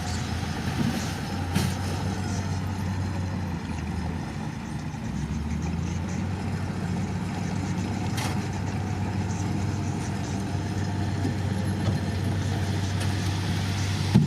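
Diesel engine of heavy earthmoving equipment running steadily, its low note shifting slightly partway through, with a couple of brief knocks.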